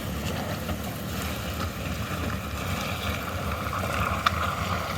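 Vehicle engine running hard under load as its wheels spin, struggling to climb an icy road. One short sharp knock about four seconds in.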